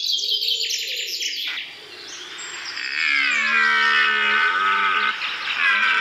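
Birdsong: a run of rapid high chirps, then two longer wavering pitched calls, each about two seconds long, the first starting about three seconds in and the second near the end.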